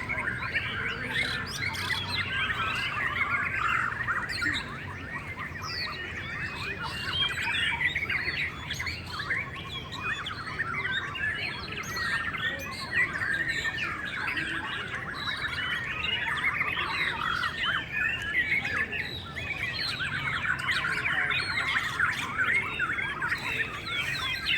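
Many white-rumped shamas singing at once: a dense, unbroken chorus of overlapping whistles, trills and chirps.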